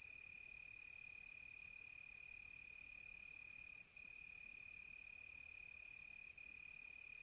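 Crickets trilling: one high, unbroken, steady trill, with a second, higher trill in spells of about a second and short gaps between, over a faint hiss.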